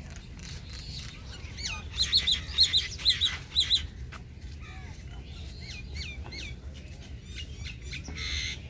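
Small birds chirping in quick, short high notes, with a loud run of rapid chirps about two seconds in and a brief harsh call near the end, over a steady low rumble.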